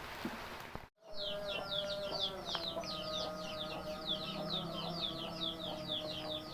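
Rain hiss for about a second, then an abrupt cut to a flock of poultry chicks peeping: many rapid, high, falling chirps, several a second, over a steady lower tone.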